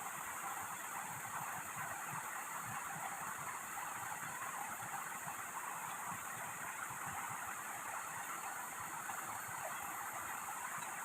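Steady heavy rain falling, an even hiss without breaks.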